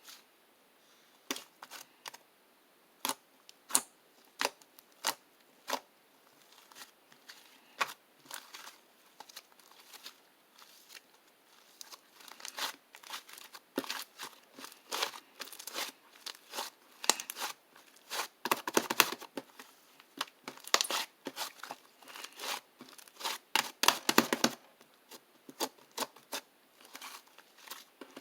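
Close handling noises: irregular sharp clicks and taps, growing into rapid crinkling, tearing-like rustle that is busiest about two-thirds of the way through.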